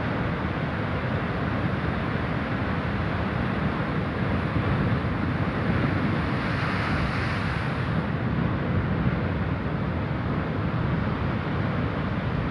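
Rough sea surging against rocks, with wind buffeting the microphone in a heavy low rumble; a wave breaks with a louder hissing rush about six to eight seconds in.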